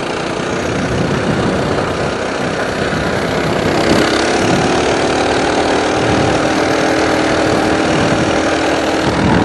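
Coleman BT200X mini bike's 196 cc single-cylinder four-stroke engine running under throttle as the bike is ridden. It grows louder about four seconds in, then holds a steady, buzzy pitch.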